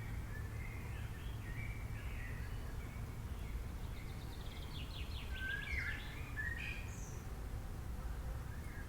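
Songbirds chirping and calling, with a quick trill about four to six seconds in, over a steady low rumble.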